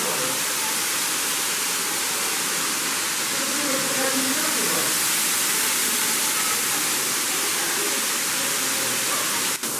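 Steady, even rushing noise of a waterfall, with faint voices beneath it.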